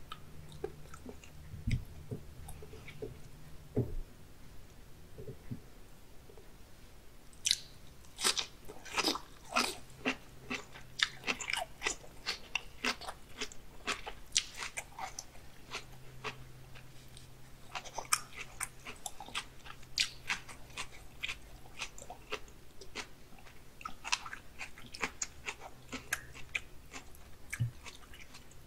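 Close-miked chewing of raw salmon sashimi with wet mouth clicks and smacks. Sparse and soft for the first several seconds, then a dense run of sharp clicks.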